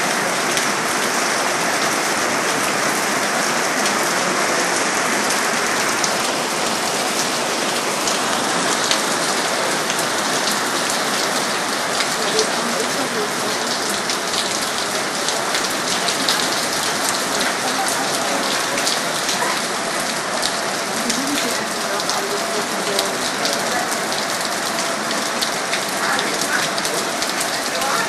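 Heavy rain falling steadily: a dense, constant hiss with the sharp ticks of individual close drops.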